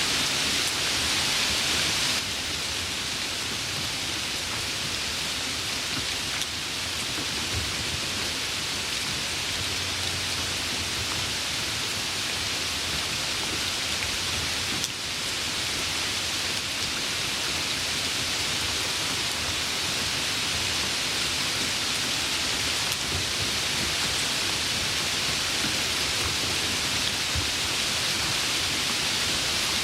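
Steady rain: a dense, even hiss, slightly softer after about two seconds in.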